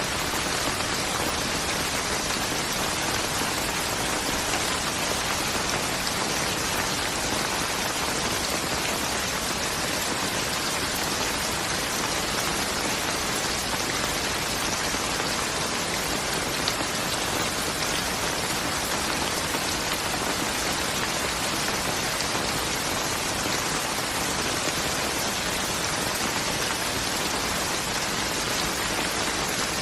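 Steady, even rain falling, a constant hiss without thunder.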